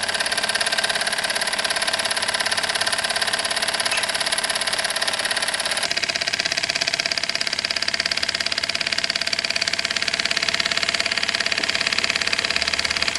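Cyldon 13-3 toy live steam engine running fast and steadily under full steam, with a rapid, even beat.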